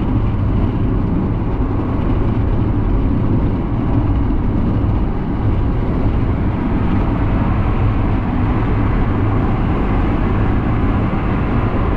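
Steady road noise inside a car cabin at highway speed, about 80 km/h: tyre roar and engine drone, heaviest in the low end, with no changes.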